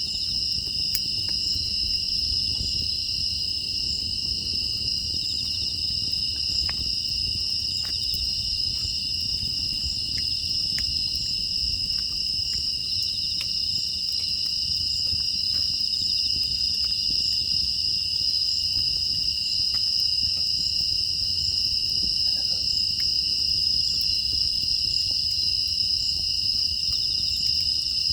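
Steady chorus of crickets and other grass insects, trilling without a break at two constant high pitches, over a low rumble with scattered faint crackles from a wood fire.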